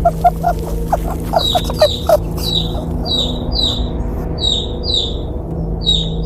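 Baby chick peeping: a quick run of short, lower squeaks, then repeated high chirps, mostly in pairs, over a low, steady music drone.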